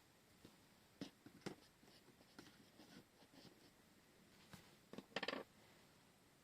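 Faint crafting sounds at a desk: scattered light taps and clicks, then a brief scratchy rasp about five seconds in, the loudest sound.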